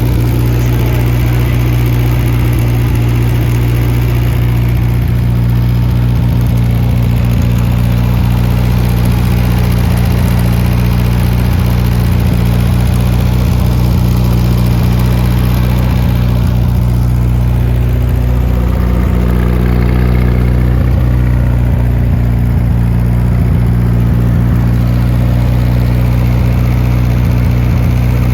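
1969 Adams Probe 16's engine idling steadily, running again on its first start after more than forty years dormant.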